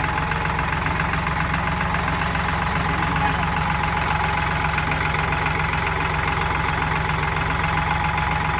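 Sonalika DI 734 tractor's diesel engine running steadily at raised revs, a constant low drone.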